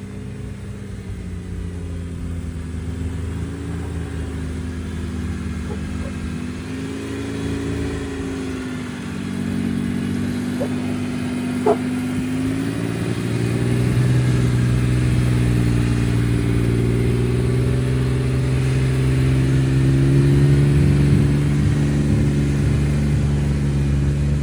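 Jeep engine pulling at low speed on a steep off-road climb, its note wavering up and down with the throttle. It gets louder partway through and settles into a steadier, stronger drone for the second half.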